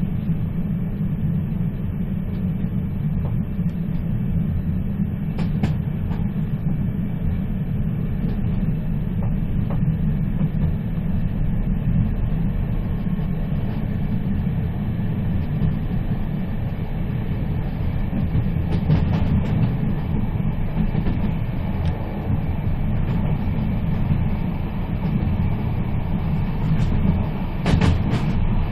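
A moving train running along the track: a steady deep rumble, with a brief sharp noise near the end.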